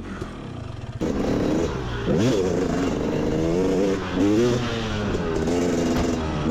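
Motorbike engine revving, its pitch climbing and falling again and again with the throttle. It is quieter for the first second, then comes in suddenly, with a sharp rise about two seconds in.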